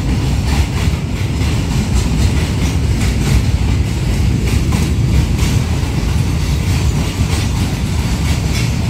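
Container wagons of a freight train rolling past: a steady, loud low rumble with wheels clacking over the rail joints.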